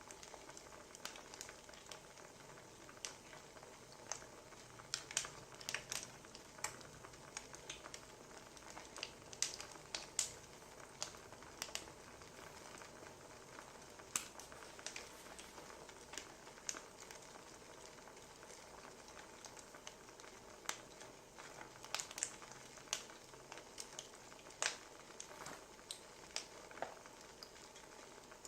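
Wood fire crackling: irregular sharp pops and snaps over a faint steady hiss, a few louder pops scattered through.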